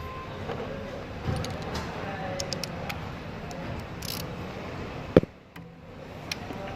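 Scattered small metallic clicks and clinks of hand tools and bolts being handled while an exhaust is refitted, with one sharp click about five seconds in, over a steady background hum.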